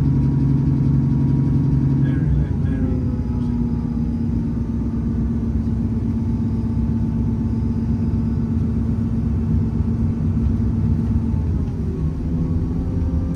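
Diesel multiple unit's underfloor engine running with the rumble of the train, heard on board. About two and a half seconds in, the engine note drops to a lower steady tone, and it changes again near the end.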